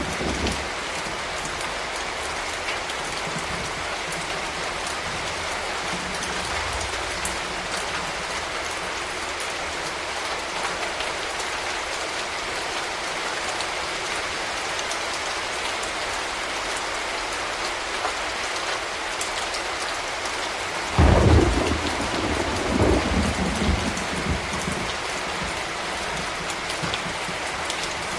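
Steady rain falling on a street. About three quarters of the way through, a sudden loud low rumble of thunder breaks in, swells a second time and fades over about three seconds.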